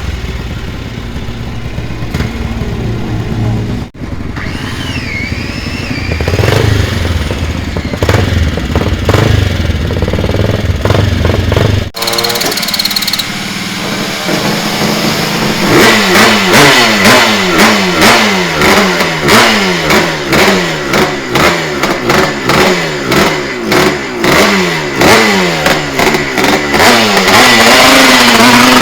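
Classic air-cooled racing motorcycle engines running and being revved, the sound cutting abruptly from one bike to another twice. From about halfway through, an engine is blipped over and over, its pitch rising with each throttle stab, then held at higher revs near the end.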